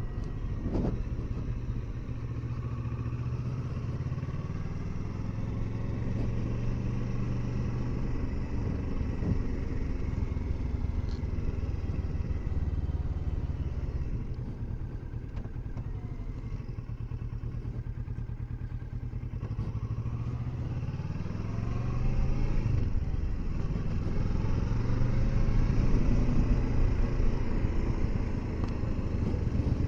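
Kawasaki Versys 650's parallel-twin engine running as the motorcycle is ridden. The engine pitch climbs and it gets louder about two-thirds of the way through as the bike picks up speed.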